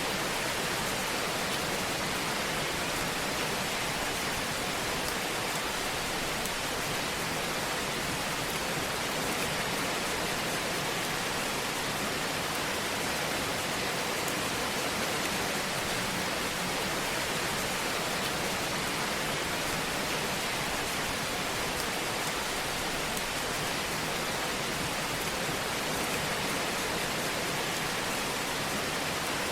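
Wood fire in a fireplace, a steady hiss with faint crackles.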